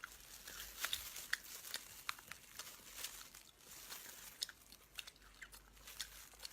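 Close-miked chewing and biting: irregular wet clicks and small crunches of a person eating.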